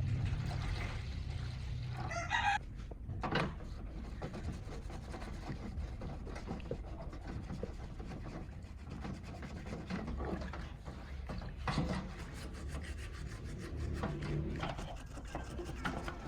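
Hand scraping and rubbing, a rough rasping on a workpiece. A rooster crows in the background about two seconds in.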